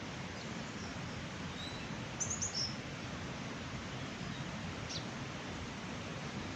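Steady rushing of a mountain stream or waterfall. A small bird gives a quick run of high chirps about two seconds in, and another single chirp near the five-second mark.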